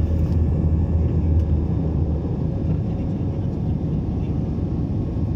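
Steady low rumble of an engine-driven vehicle, with a deep hum that drops away about two seconds in.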